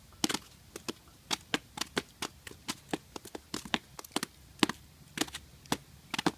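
A run of irregular sharp clicks, about two to three a second, some in quick pairs.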